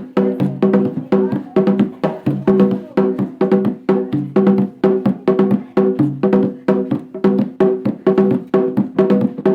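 Acoustic instrumental music of struck percussion: a fast, even rhythm of sharp strikes, each with a short pitched ring, and no singing.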